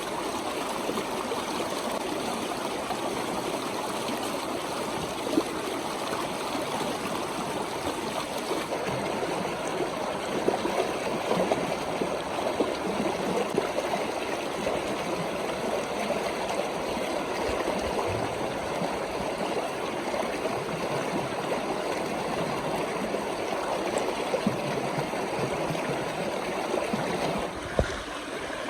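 River water flowing and rushing steadily, with a few light knocks.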